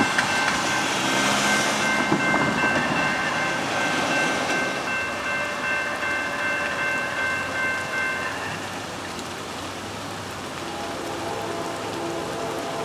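Freight train rolling past: a dense, steady rushing of wheels on rail, with a high steady ringing tone over it for the first eight seconds or so, after which it eases slightly.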